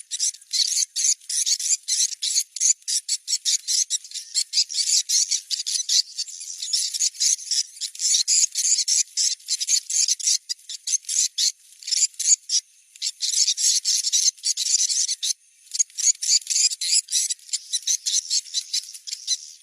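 Swiftlet location-check lure call: a recording of swiftlets' rapid, high twittering chirps, played to test whether swiftlets are around a site. The chirping is dense and continuous, with a couple of brief pauses past the middle.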